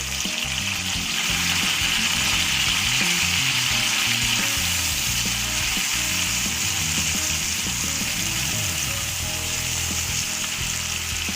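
Onions, green chillies and tempering spices with freshly added tomato puree sizzling in hot oil in a frying pan: a steady, dense frying hiss. Soft background music runs underneath.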